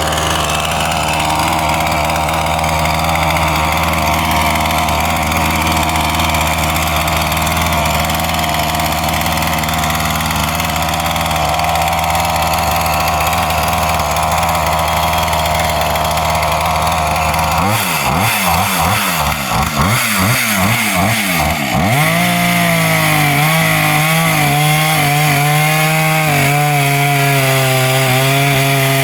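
Gas chainsaw engine running steadily, then its pitch swings up and down as the throttle is worked about two-thirds of the way through. It settles into a higher, steady note near the end, as when the chain is cutting wood.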